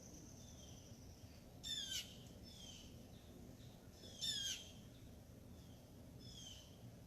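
Birds calling: short bursts of quick, falling notes, two louder ones about two and a half seconds apart and fainter ones between, over a steady low background hum. A thin high steady whistle fades out about a second in.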